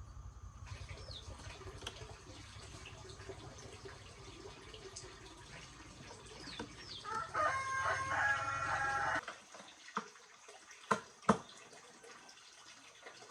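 A rooster crows once, for about two seconds, over a steady low hum that cuts off as the crow ends. A few sharp clicks follow.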